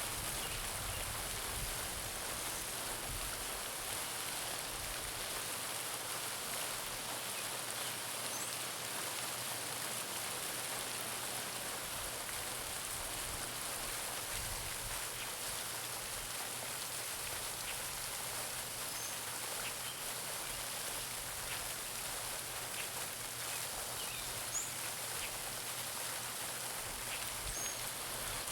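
Garden pond fountain splashing steadily into the water, with a few faint, high bird chirps now and then.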